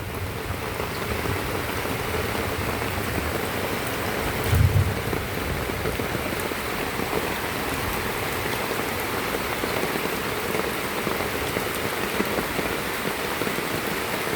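Heavy rain pouring down steadily in an even hiss. There is a brief low bump about four and a half seconds in.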